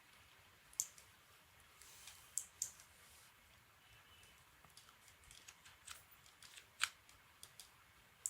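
Faint, irregular clicks of a computer mouse and keyboard, a dozen or so, with the sharpest about a second in, a pair at about two and a half seconds, and one near seven seconds.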